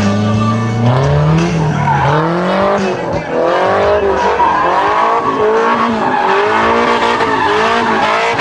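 A drift car's engine revving hard, climbing and dropping again and again as the throttle is worked, with tires squealing through the slide.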